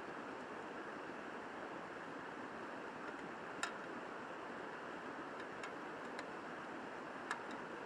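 River rushing steadily, with a few short sharp clicks scattered through it, the strongest about three and a half seconds in and another near the end.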